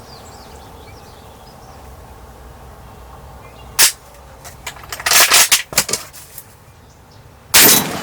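Faint bird chirps, then a single sharp, loud crack about four seconds in. A rapid run of short rustling bursts follows, and a loud rush of noise lasting about half a second comes near the end.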